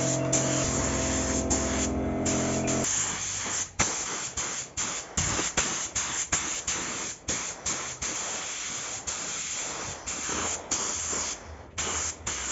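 Aerosol spray paint can sprayed in many short bursts, a hiss that starts and stops again and again. A music track holds steady notes under it for about the first three seconds.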